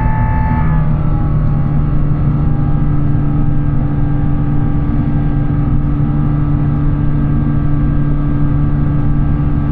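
Airbus A350-900's Rolls-Royce Trent XWB jet engines heard from inside the cabin: a loud, steady rumble with a droning hum. The hum's pitch shifts about a second in and then holds steady.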